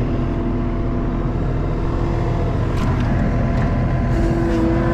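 ASV RT-40 compact track loader's diesel engine running steadily under the operator, with a thin steady whine over it that changes pitch about four seconds in.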